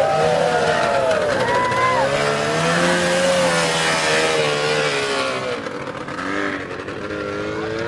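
Vehicle engines revving, their pitch rising and falling repeatedly, with more than one engine overlapping in the first second or so, easing off about five and a half seconds in.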